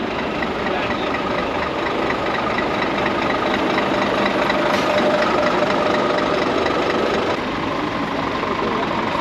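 Heavy diesel truck engine idling steadily, with a faint regular tick; its note shifts about seven seconds in.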